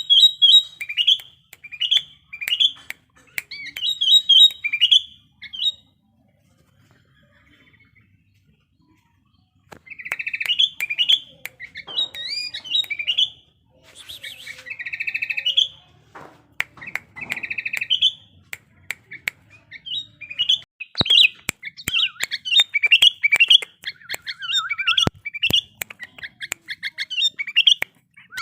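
Sooty-headed bulbul (kutilang) calling in quick, repeated short whistled phrases, the excited calling of a male in strong breeding condition. There is a pause of a few seconds after about six seconds, and sharp clicks run through the calls.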